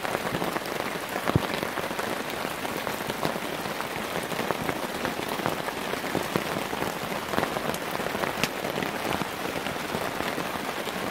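Heavy rain pouring steadily, with many individual drops pattering sharply close by.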